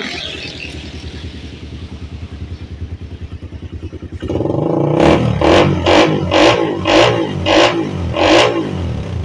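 Suzuki Satria FU 150's single-cylinder four-stroke engine idling steadily. About four seconds in, the revs come up, and the throttle is then blipped seven times in quick succession. The engine is stock, and the seller calls it smooth-running.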